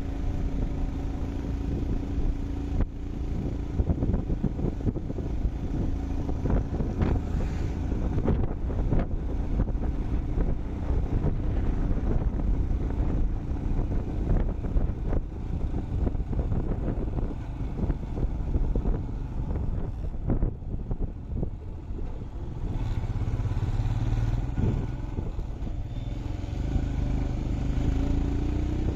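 Motorcycle running on the move, with a dense low rumble and many short knocks and rattles. The engine note rises near the end.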